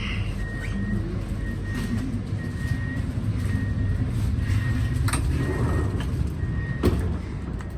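Train door warning beeps: a short high beep repeating about once a second over the low rumble of the standing trains. Two sharp knocks sound about five and seven seconds in.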